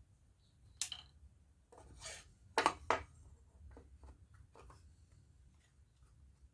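Light clicks and knocks from wooden drawer parts being handled and fitted together during a glue-up. There is a brief scrape about two seconds in, and the two loudest clicks come close together just after.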